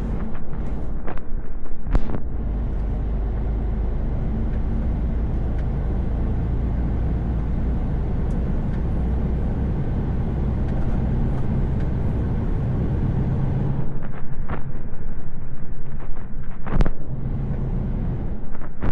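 Inside a truck's cab on the move: the diesel engine runs steadily under tyre and road noise. Short knocks and rattles come a couple of times near the start and more often in the last five seconds.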